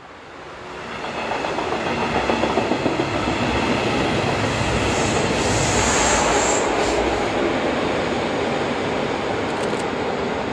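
Electric-hauled regional train of double-deck coaches rolling across a steel truss rail bridge. Its wheels make a rumbling noise that builds over the first two seconds and then holds steady. A brief high squeal comes about halfway through.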